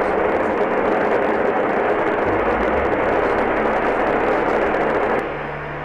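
Steady, loud rushing roar of a volcanic eruption, with a few low thuds in the middle. It drops suddenly to a quieter rush about five seconds in.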